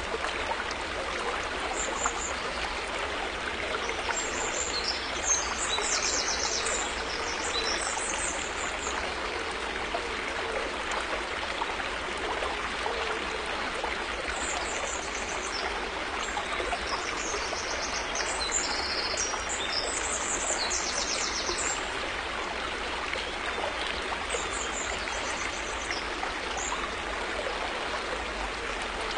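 A river flowing steadily, a continuous rushing babble of water. Above it, at intervals, come spells of high, rapid chirping trills, most likely small birds.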